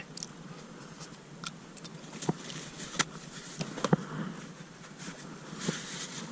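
Scattered light clicks and knocks of kitchen items being handled during food preparation, over a faint steady background.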